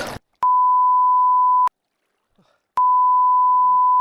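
Loud electronic beep tone at a single steady pitch of about 1 kHz, edited into the sound track. It sounds twice, each beep lasting a little over a second, with dead silence between them.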